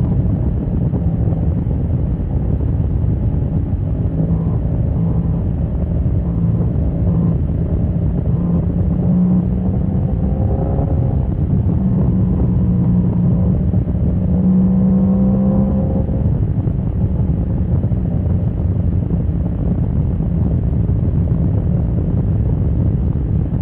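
A motorcycle running hard at track speed, heard with heavy wind rush on the microphone. The engine note climbs in pitch twice near the middle as the bike accelerates.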